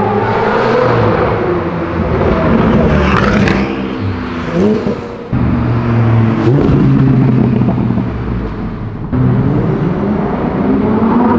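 Supercar engines accelerating along a city street and passing by, their pitch rising and falling through the revs. The sound changes abruptly twice, about halfway through and again later.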